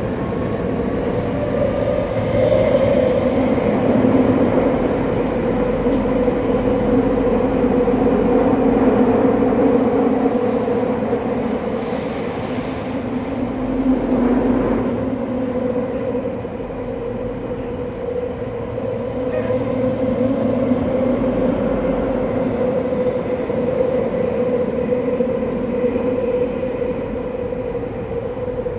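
Interior running sound of a Saitama Railway 2000 series electric train travelling through a subway tunnel: a steady hum of motors and wheels on rail. About twelve seconds in comes a brief high squeal from the wheels.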